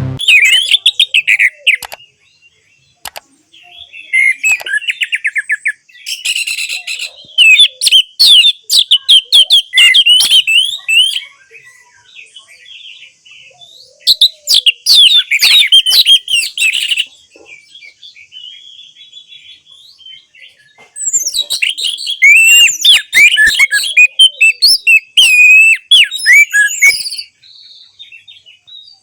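Orange-headed thrush singing a loud, varied song of rapid whistles, chirps and sweeping notes, delivered in bouts of several seconds with short pauses between them.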